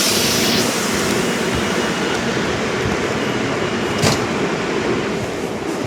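SEPTA Silver Liner V electric multiple-unit train, a steady loud mix of rumble and equipment noise at close range. A hiss of air dies away in the first half-second, and a sharp click comes about four seconds in.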